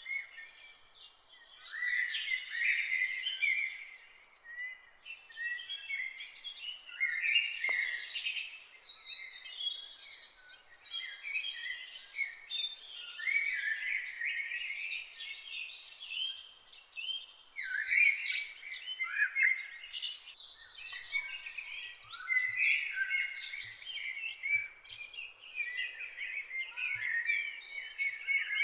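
Morning chorus of many songbirds singing and chirping at once, a dense tangle of overlapping short phrases and calls.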